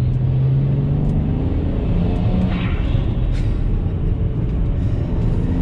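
BMW 335i's N54 twin-turbo inline-six heard from inside the cabin while driving, a steady low drone, with the revs rising about two seconds in.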